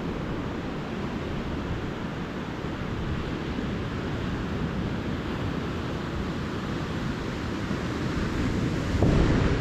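Calm ocean surf on a beach: a steady rush of small waves washing in, swelling louder near the end as a wave breaks.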